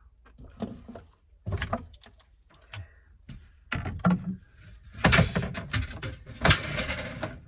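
Scattered knocks and clatter of objects being handled, then a louder stretch of rustling and scraping in the second half.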